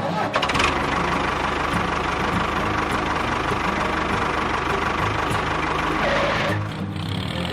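Tractor-type engine running steadily with an even knocking idle, changing abruptly near the end.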